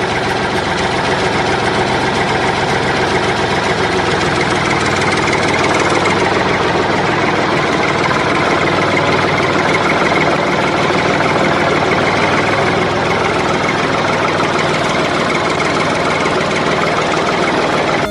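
Engine running steadily at idle, a dense unbroken mechanical drone.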